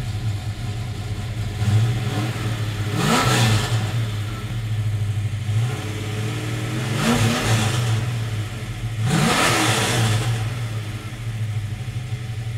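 1970 Mercury Cougar's 393 cubic-inch V8 idling, revved with three throttle blips, about 3, 7 and 9 seconds in, each rising and falling back to idle.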